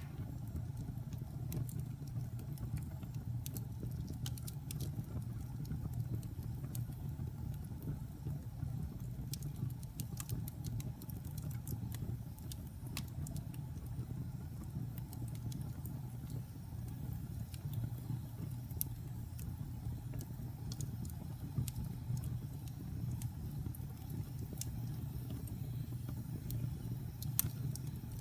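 Wood fire burning in a fireplace: a steady low rumble of the flames with scattered sharp crackles and pops, one louder pop near the end.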